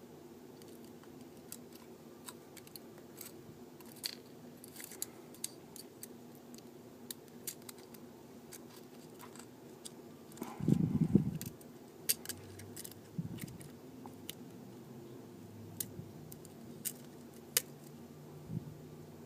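Small metal repair tools clicking and tapping against an iPhone 4S's internal parts and frame during disassembly: scattered light ticks, with a louder bump and rustle of handling about ten seconds in.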